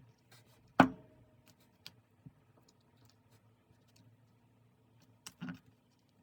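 Small clicks and taps of objects handled and set down on a desk during diary decorating, with one sharp knock about a second in that rings briefly, and a double knock near the end.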